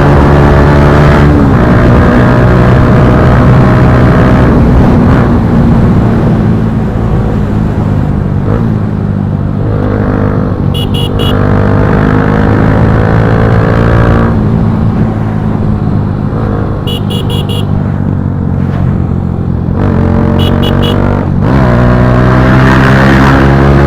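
Bajaj Pulsar NS160's single-cylinder engine through an Akrapovic slip-on exhaust, riding and accelerating through the gears, its pitch climbing and then dropping at each shift. It eases off through the middle and pulls hard again near the end, with three brief bursts of short high beeps along the way.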